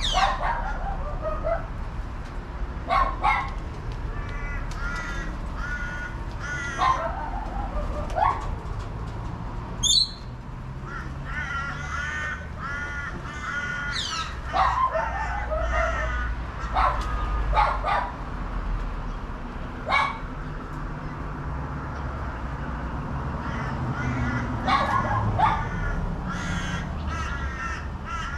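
Crows cawing, a series of drawn-out calls repeated throughout, with a brief high whistle about ten seconds in, over a steady low rumble.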